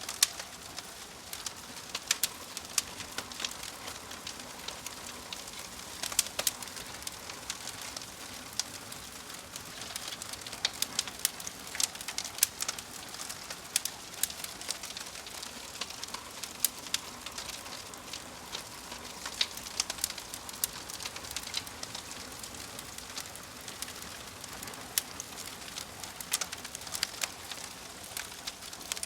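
Wood fire crackling: irregular sharp pops and snaps over a steady hiss, with a bird calling in the background.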